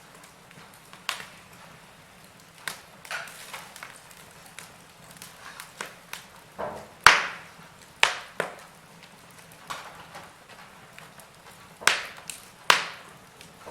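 Wood fire crackling in a fireplace: irregular sharp pops and snaps over a faint hiss, with the loudest cracks about seven, eight and twelve seconds in.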